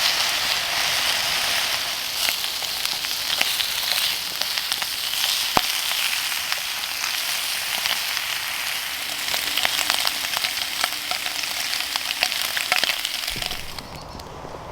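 Home-smoked bacon frying in a pan over a small twig fire: a steady, loud sizzle with little crackles and spits, which cuts off shortly before the end.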